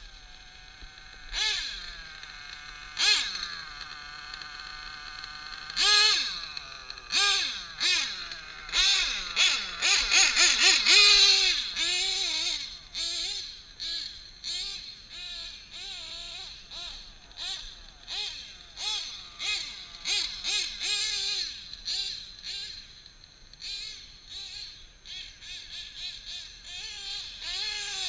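Small nitro RC engine (a drag-modified Novarossi .28 in a 1/7 Kyosho Nitro Scorpion truggy) running: it idles steadily for a few seconds, then is revved up and down again and again in quick throttle blips. The engine is newly broken in, with about three tanks through it.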